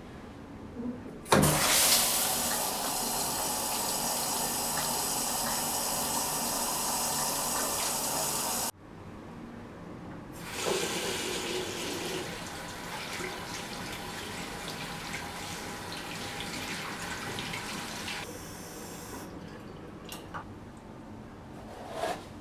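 Water running from a tap into a sink in a strong steady stream, which cuts off abruptly about nine seconds in. Quieter running water follows.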